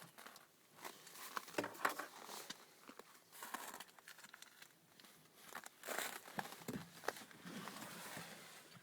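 Irregular rustling and small clicks of close handling noise, uneven and stop-start.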